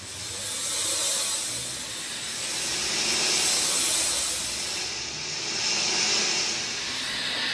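Steady rain hiss that swells and eases in waves every couple of seconds.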